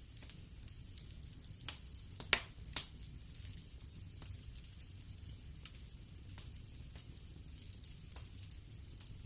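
Wood fire burning in a fireplace: irregular crackles and pops over a low steady rumble of the flames, with two louder pops about two and a half seconds in.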